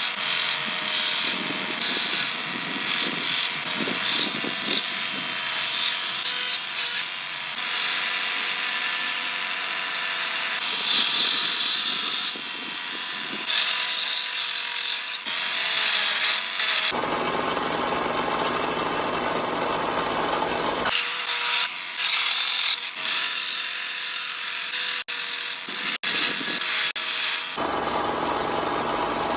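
Tools shaping a hickory axe handle: continuous abrasive scraping and rubbing on wood. The sound changes to a fuller, deeper noise from about 17 to 21 seconds in and again near the end.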